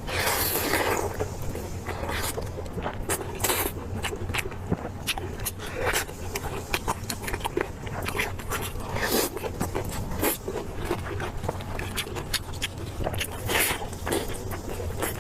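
Close-miked eating sounds: chewing and biting of meat, a run of sharp wet clicks with a few longer noisy bursts.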